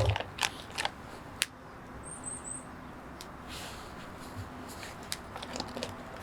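A few sharp clicks and knocks in the first second and a half, the loudest at the very start, with a quick run of three faint high chirps about two seconds in and a few lighter clicks near the end.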